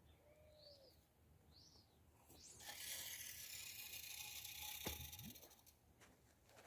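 A few short bird chirps, then a hissing rush of noise lasting about three seconds, with a sharp knock near its end.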